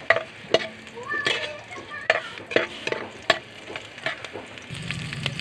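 Ginger and garlic sizzling in hot oil in a metal pot as a utensil stirs them, scraping and knocking against the pot in repeated strokes, roughly two a second. A low hum comes in near the end.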